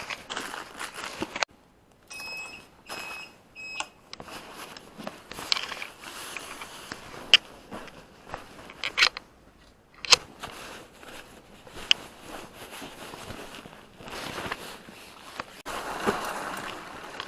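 Clicks, knocks and rustling of things being handled, with three short electronic beeps about two to four seconds in.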